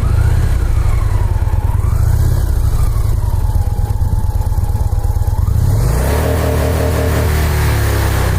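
Motorcycle engine idling with a steady pulsing beat. About six seconds in, the sound grows fuller and a rising note comes in.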